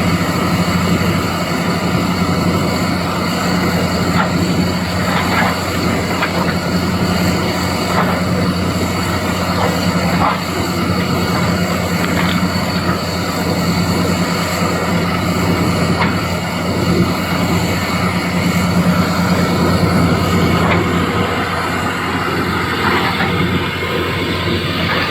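Doosan DX390 excavator's diesel engine running steadily with a constant low hum, and a few light knocks scattered through.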